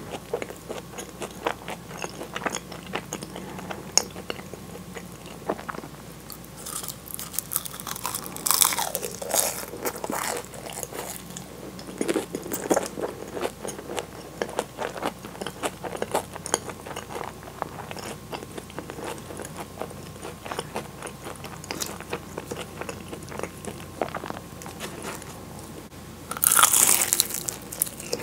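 Close-miked chewing of flaky-pastry egg tarts: a steady run of small crisp crunches as the layered crust breaks between the teeth, with a louder bite near the end.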